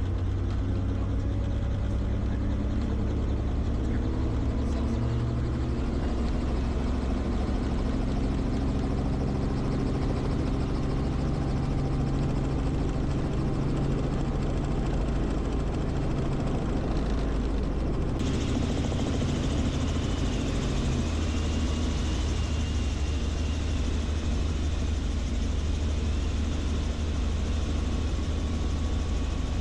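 Helicopter engine and rotor running steadily, the low drone shifting in pitch now and then. About two-thirds of the way through the sound turns suddenly brighter and hissier, and a faint wavering high tone comes in for a few seconds.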